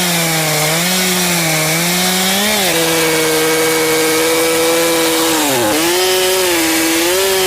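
Chainsaw cutting through a log, its engine pitch swinging up and down as the chain bites, then holding steady for a few seconds. Near the end the pitch drops sharply, then rises again.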